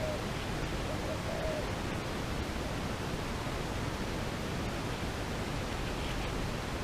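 Steady rushing outdoor noise, with a few short, soft hooting bird calls in the first second and a half.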